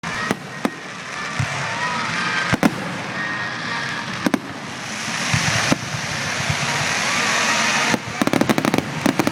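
Fireworks display: single sharp bangs of bursting shells every second or two, then a swelling crackling hiss. Near the end comes a rapid run of crackling reports.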